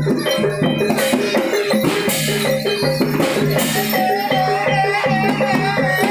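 Lively Javanese gamelan music of the kind played for a barongan dance: fast repeated notes on pitched percussion, with bright high percussion strokes, and a wavering melodic line coming in about four seconds in.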